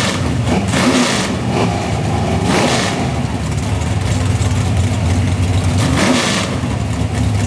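Two street-race cars idling at the start line with a steady low rumble, revved in several short blips.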